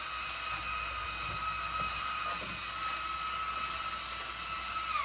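Small electric motor whining at a steady pitch, then slowing down with a falling whine near the end.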